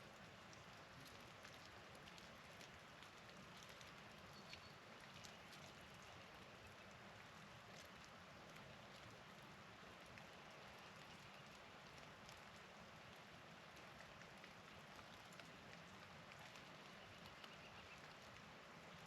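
Faint, steady patter of falling precipitation on surfaces: a hiss full of tiny ticks. A faint short bird chirp comes about four and a half seconds in, and faint high bird calls come near the middle and near the end.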